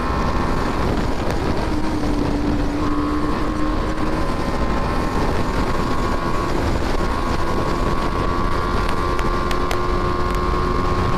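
BMW G 310 R's single-cylinder engine pulling hard at high revs under full throttle. Its note dips about a second in, as with a shift up a gear, then climbs slowly as speed builds past 100 km/h. Heavy wind rush on the microphone runs under it.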